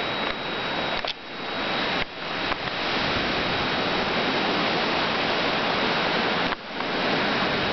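Hurricane-force wind buffeting the microphone in a dense, steady rush of noise. It drops out briefly about a second in, again at two seconds and near the end, each time swelling straight back.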